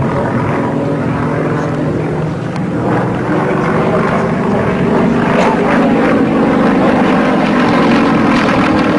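Piston-engined propeller aircraft flying past with its engine running steadily; the engine note rises slightly a few seconds in.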